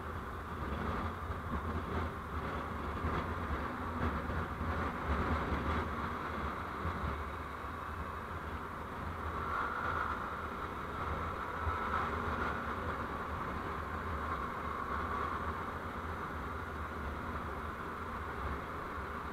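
Steady road and engine noise of a vehicle under way, rising and easing slightly a few times.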